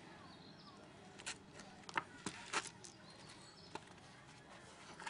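Faint outdoor background with birds chirping now and then, and a handful of sharp, brief knocks or clicks scattered through it.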